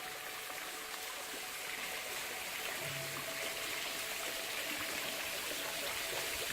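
Running water, a steady rushing hiss like a mountain stream that grows a little louder partway through, under faint background music with a few held notes.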